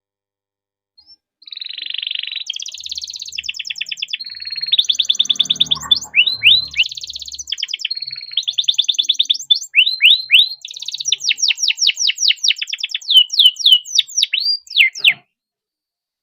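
Domestic canary singing a long, rapid song of rolls and trills, with runs of fast downward-sweeping notes in the second half. It starts about a second and a half in and breaks off about a second before the end.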